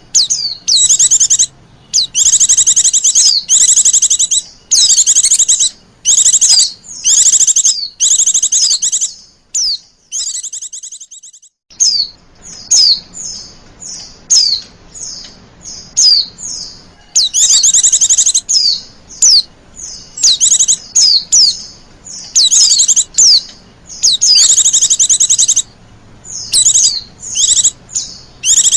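Female white-eye (pleci) calling: high, thin chirps and rapid trills repeated in quick bursts, with a short pause about ten seconds in. These are the coquettish female calls used as a lure to draw male white-eyes.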